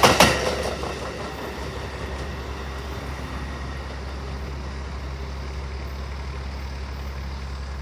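Amtrak passenger train: a few sharp wheel clacks over rail joints right at the start, then a steady low rumble with a hum.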